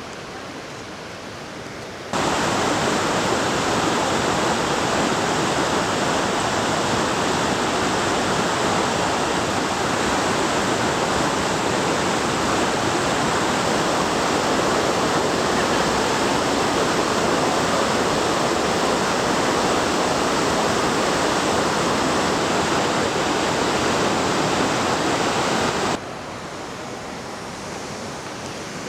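Waterfall: a steady rush of falling water, much louder from about two seconds in and cutting back sharply to a quieter rush near the end.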